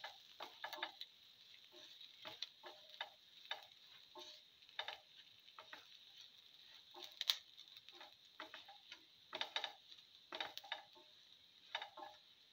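Cumin seeds, shallots and garlic frying in a little hot oil: a faint steady sizzle with irregular small pops and ticks.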